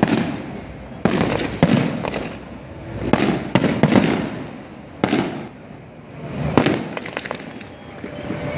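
Aerial fireworks display: a string of sharp shell bursts, roughly one a second, with crackle filling the gaps. The bangs thin out in the last two seconds or so.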